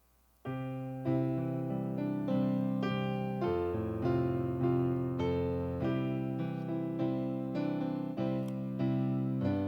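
Near silence, then about half a second in, solo piano music begins: gentle chords and notes struck in a steady flow, roughly two a second.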